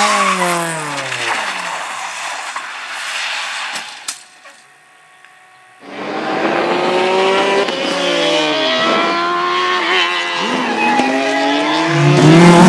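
Race car engine revving hard, its pitch falling as it lifts off, then a short near-quiet gap. The engine then comes back, its revs rising and falling through the gears.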